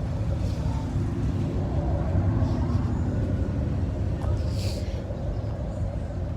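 Low, steady rumble of motor-vehicle engines, with a short hiss a little past the middle.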